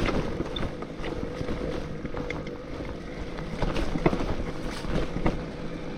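Riding noise from a BBSHD mid-drive electric mountain bike: a steady motor whine under wind buffeting the microphone, with scattered knocks and rattles from the bike bouncing over the trail.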